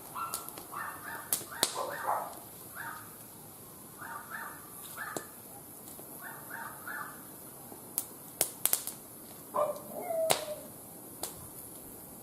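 Wood fire crackling with sharp scattered pops, while an animal calls in the background in short repeated calls, mostly in runs of two or three.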